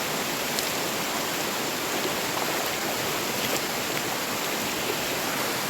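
Steady rush of water flowing and cascading down a tiered waterfall.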